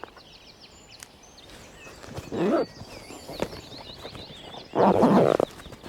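Two short, deep groans, about two and a half seconds apart, in the manner of a rutting fallow buck's groan. Small birds sing faintly throughout.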